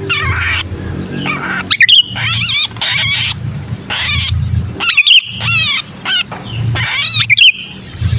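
Sooty-headed bulbuls calling loudly: harsh rasping calls alternate with quick, up-and-down chirping notes about once a second, over a low hum. These are the distress calls of a trapped bulbul, used as a lure call to draw wild bulbuls down.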